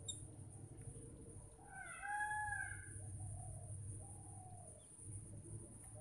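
A bird's clear call, rising then falling in pitch and lasting about half a second, about two seconds in. Fainter calls of the same shape come before and after it, over a steady high-pitched buzz.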